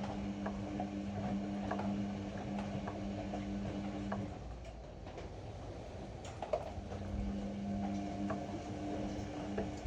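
Ariston AML125 washer-dryer drum motor humming as the drum turns, with scattered light ticks; the hum stops about four seconds in and starts again a couple of seconds later, the drum pausing between turns of its tumble cycle.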